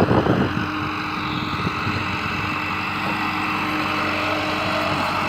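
Massey Ferguson 385 tractor's diesel engine running at a steady speed and pitch.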